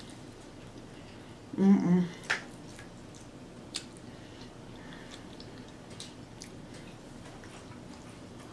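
A person chewing a mouthful of roasted potato, with a few sharp mouth clicks and a short voiced hum about a second and a half in.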